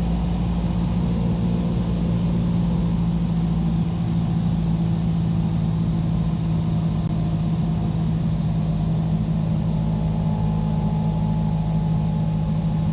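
Cessna 172 engine and propeller droning steadily inside the cockpit at reduced power during a descent on final approach, one constant low hum with no change in pitch.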